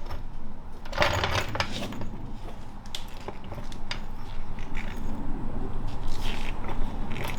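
Metal clinking and scraping of car-lifting gear, a floor jack and jack stands, being handled and set under a car, in a few separate bursts: near the start, about a second in, and again near the end.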